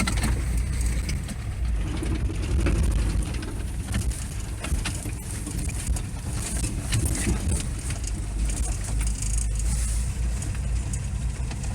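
A vehicle driving on a rough dirt track: a steady low engine and road rumble, with frequent short rattles and knocks from the bumps.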